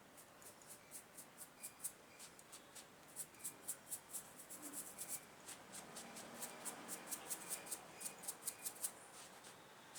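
A run of light, sharp clicks and ticks, several a second and irregular, from small hand work on engine parts, growing busier from about three seconds in.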